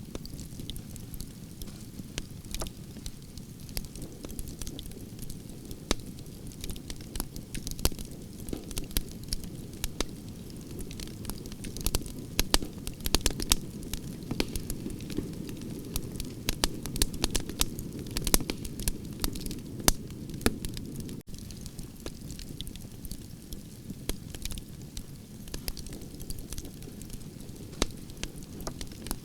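Campfire of burning branches crackling and popping: a dense stream of sharp snaps over a steady low rumble of flames, the pops busiest midway through.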